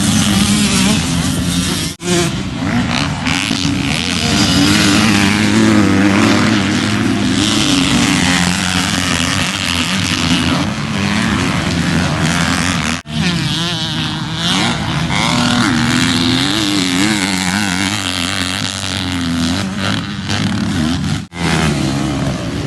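Motocross dirt bike engine revving up and down through the gears while riding, loud and continuous. Brief dropouts about two, thirteen and twenty-one seconds in break it into separate stretches.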